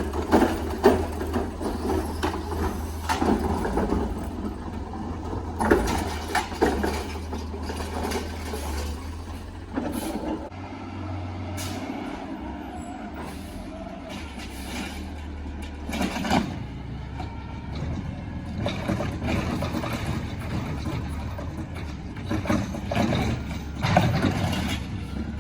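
Side-loader garbage truck running at the curb, its engine humming steadily, with air-brake hisses and repeated knocks and clanks from the working truck.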